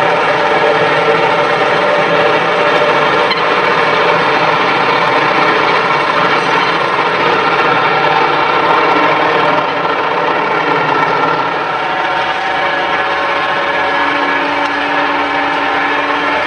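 An engine-driven machine running steadily, with a steady hum joining about fourteen seconds in.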